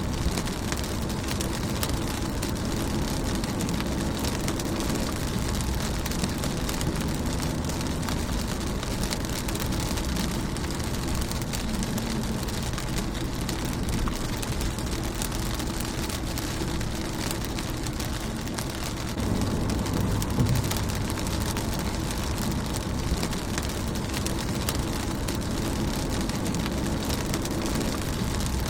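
Steady rain falling on a car windscreen, a dense hiss of many small drop ticks over a low rumble. The low rumble swells louder for a couple of seconds about two-thirds of the way through.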